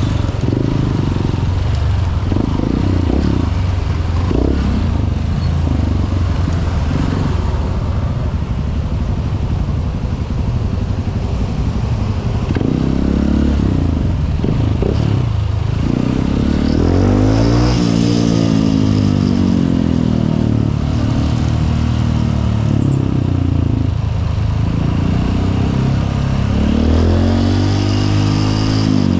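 Honda CRF150L's single-cylinder four-stroke engine under way, its revs rising and falling as it accelerates and eases off, with a clear climb in pitch about halfway through and again near the end.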